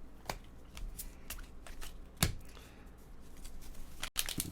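Trading cards being handled and flipped through, sliding and snapping against each other in a string of light clicks, with one sharper snap about two seconds in. Near the end the clicks come faster and closer together.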